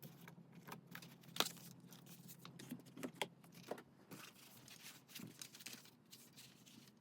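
Paper and stationery being handled while a junk journal is put together: soft rustles with scattered small taps and clicks, the sharpest about a second and a half in.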